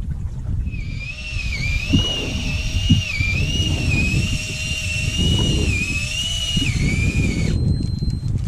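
Electric fishing reel's motor whining as it winds in line, its pitch dipping and recovering about once a second. The whine stops shortly before the end, with wind and boat noise underneath.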